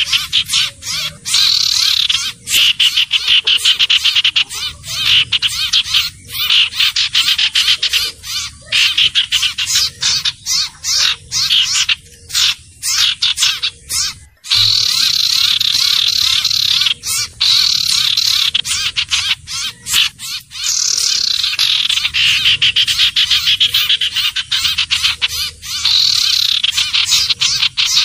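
Recorded lure call of the sirtu/cipoh bird: fast, rattling, high-pitched chattering runs of notes, repeated almost without pause, with short breaks between runs.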